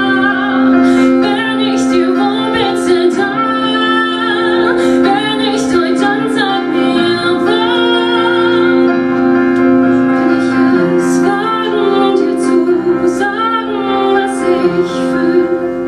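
Live song: a woman singing over steadily held accompaniment chords.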